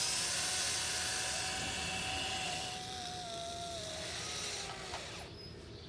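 Electric motors of a Huina 1580 RC excavator whining while it digs, the pitch wavering as the load changes. The motors stop about five seconds in.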